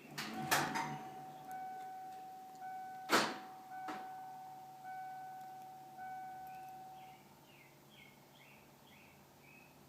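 The truck's key-on electronic warning tone before the engine is cranked: a few clicks, then a steady tone for about seven seconds with a higher beep sounding on and off over it. There is one sharp click about three seconds in. Faint bird chirps come near the end.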